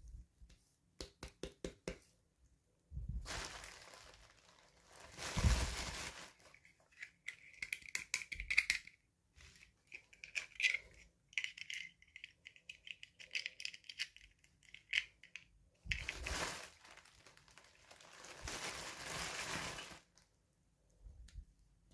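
Toy packaging being torn open and crinkled by hand. A run of quick clicks comes first, then two long stretches of tearing and rustling, with scratchy scraping between them.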